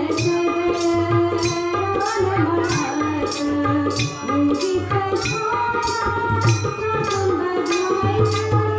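Devotional bhajan accompaniment: a sustained melody, most likely a harmonium, over a hand drum, with small hand cymbals struck steadily about twice a second.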